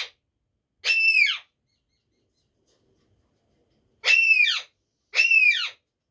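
Pet parrot squawking: three loud calls, each about half a second, rising then falling in pitch. The first comes about a second in, then a pause, then two close together near the end.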